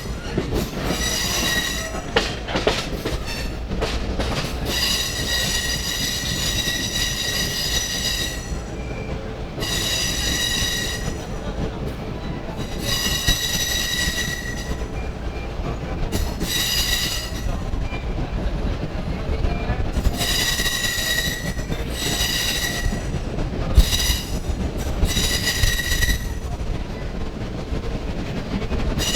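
Passenger train running, with a steady low rumble. The steel wheels squeal shrilly against the rails again and again, each squeal lasting one to three seconds.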